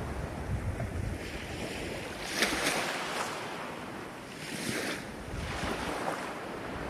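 Ocean waves breaking and washing on the shore, with a hissing surge about two and a half seconds in and another near five seconds. Wind buffets the microphone in a low rumble.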